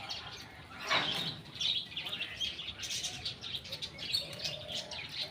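Several birds chirping and calling over one another in quick, overlapping chirps, with one louder call about a second in.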